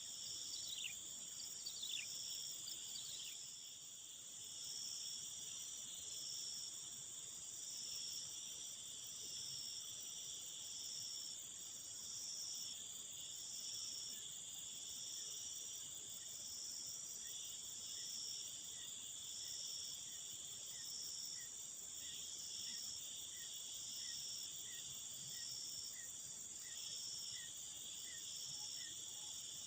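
Chorus of crickets and other night insects: several steady high trills overlap, one of them pulsing in even chirps about once a second. A few quick falling whistle calls sound in the first three seconds.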